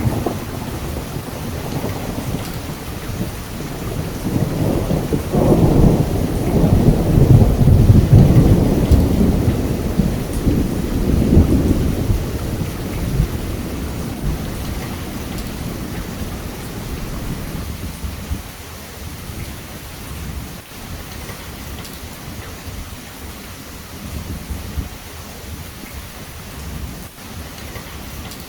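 Steady heavy rain with a long roll of thunder that builds a few seconds in, peaks, and rumbles away over several seconds, leaving the rain.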